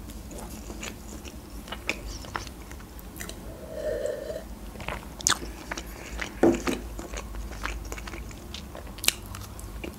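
Close-miked chewing and biting of a crispy chicken burger, with wet mouth clicks. There is a short sip and swallow from a glass of juice about four seconds in.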